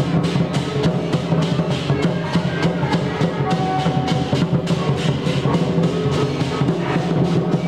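Temple procession music: drums and percussion struck in a fast, dense rhythm over sustained low instrument tones.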